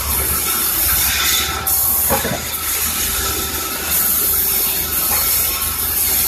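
Sawmill saw running: a steady loud noise with a strong high hiss over a low hum, the hiss dropping out briefly about one and a half seconds in.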